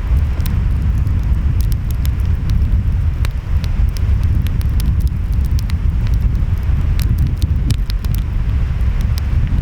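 Wood fire crackling, with many sharp, irregular pops, over a steady low rumble of ocean waves and wind.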